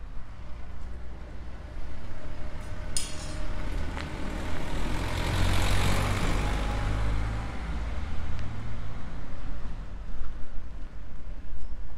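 A motor vehicle driving past on the street: engine rumble and tyre noise that rise, are loudest about halfway through, then fade away.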